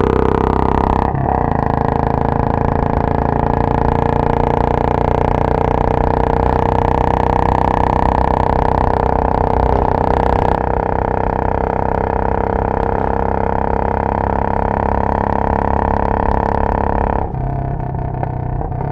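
Royal Enfield Bullet 500's single-cylinder engine running through a Punjab long bottle silencer, steady under throttle on the move. The engine note shifts about a second in and eases off, dropping in loudness, near the end.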